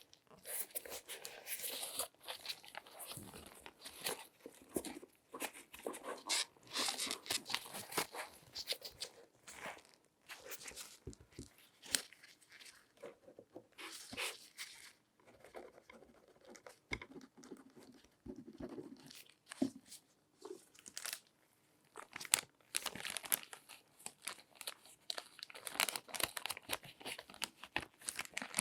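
Close-miked latex-gloved hands rubbing and handling things, an irregular crinkling, crunchy rustle with scattered small taps. It is busy at first, thins out through the middle, and picks up again near the end.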